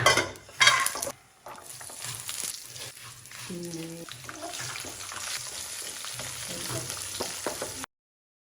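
Silam (perilla) heating in a pan for achar, sizzling with a scatter of small crackles as it is stirred. There are a couple of louder knocks in the first second, and the sound cuts off abruptly near the end.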